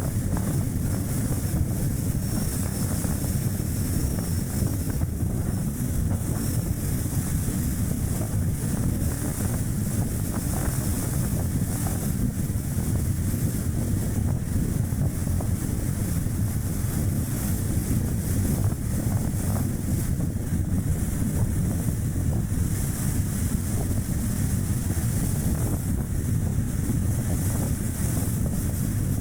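Strong wind rushing and buffeting on an action camera's microphone, over steady tyre and road noise from a small car driving at speed.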